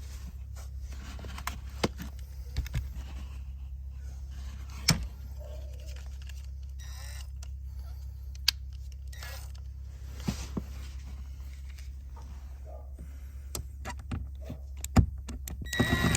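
Scattered clicks, knocks and scrapes of hard plastic trim being handled, over a steady low hum, with a short rustling burst near the end.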